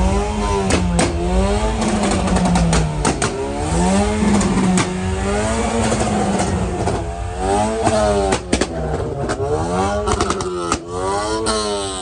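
Superbike engine being revved repeatedly, its pitch rising and falling over and over, more quickly in the second half, with many sharp cracks in between.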